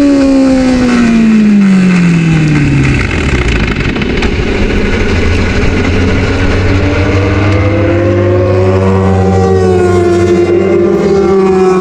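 Honda CBR600RR's inline-four racing engine running loud: the revs fall steadily over the first three seconds, run rough and unsteady for a few seconds, then climb slowly again from about seven seconds in.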